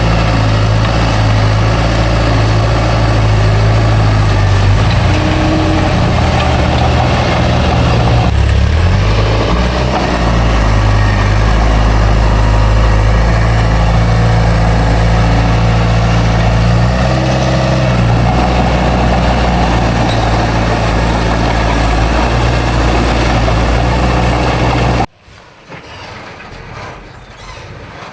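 Heavy diesel engine of a bulldozer running steadily, its pitch dipping and rising a few times as the load changes. Near the end it cuts off abruptly to a much quieter engine sound.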